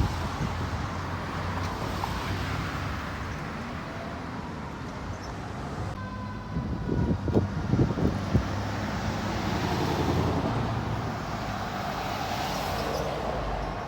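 Road traffic: motor vehicles running and passing by on the road, with a faint steady tone coming in about halfway through.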